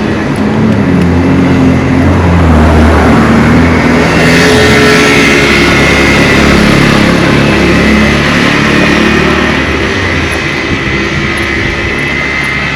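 A motor vehicle's engine running close by, with road noise. The sound swells over the first few seconds and eases off near the end.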